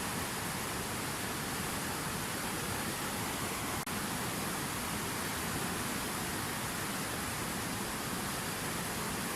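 Fountain waterfall: water falling and splashing in a steady, unbroken rush.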